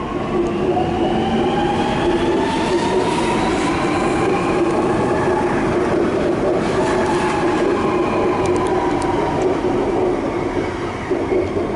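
Sydney Metro Alstom Metropolis driverless train pulling out of the station, its electric traction motors whining in several tones that rise in pitch over the first few seconds as it accelerates, then running steadily as the carriages pass, easing off slightly near the end.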